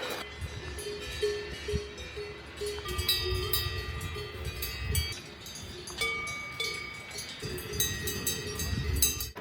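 Several cowbells clanking irregularly at different pitches, as grazing cattle move, over a low rumble.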